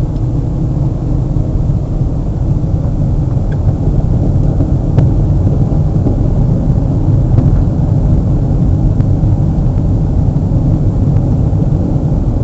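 Steady low rumble of a car driving along a road, heard from inside the cabin: tyre and engine noise, with a few faint clicks.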